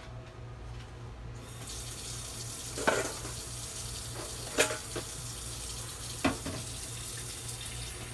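Tap water turned on about a second in and running steadily, with three sharp knocks against it, likely water going into the folding washing machine's tub before a wash.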